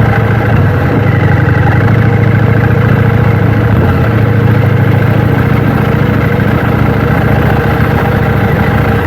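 KTM Duke 790's parallel-twin engine idling steadily.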